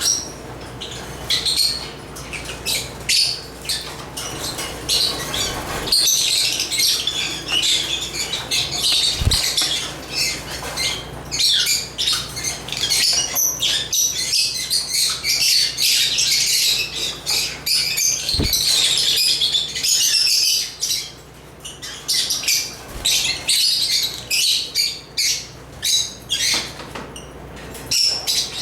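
A group of African lovebirds chattering, with rapid high chirps and squawks in dense bursts. Wing flutters are mixed in, and there are two soft low thumps, at about nine and eighteen seconds in.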